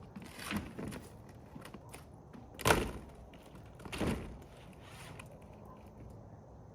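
Three dull thunks and some lighter knocks as lightweight plastic roofing panels are handled and laid on a roof; the loudest thunk comes about two and a half seconds in.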